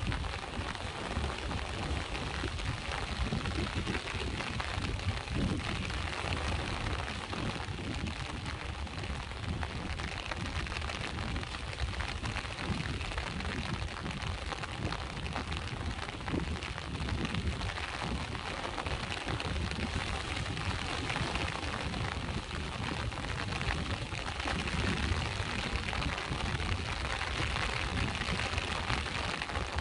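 Steady rain mixed with sea waves washing in, a constant even noise with a deep low rumble underneath.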